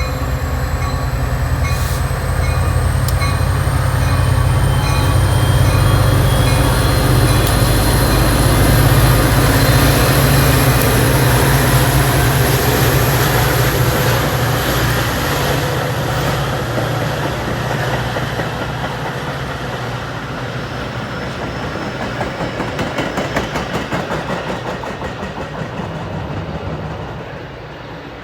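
Two EMD F40-series diesel-electric locomotives working hard as a commuter train accelerates away, with a deep engine rumble and a thin high whine that climbs slowly in pitch. The passenger cars follow with a rhythmic clickety-clack of wheels over rail joints before the sound drops off near the end.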